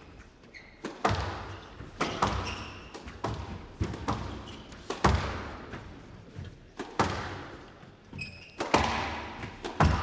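Squash ball struck back and forth in a rally: sharp racket hits and wall impacts about once a second, each echoing briefly. A few short, high squeaks of court shoes come between the hits.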